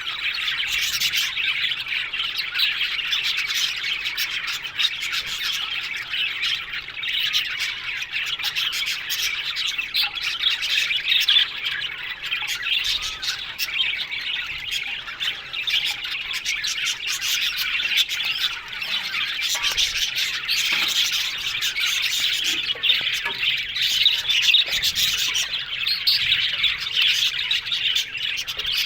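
A colony of budgerigars chattering: many overlapping squawks, chirps and warbles at once, dense and unbroken.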